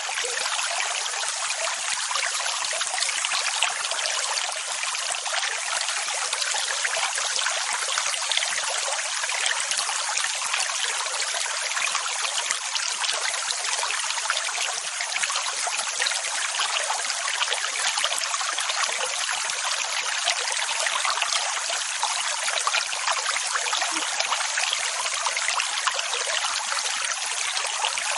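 Continuous rushing water, an even hiss that holds steady in level without the clear swell and fall of separate breaking waves.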